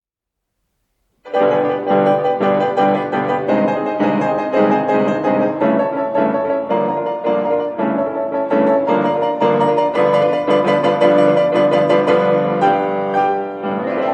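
Piano music, starting abruptly about a second in and continuing with many quick notes.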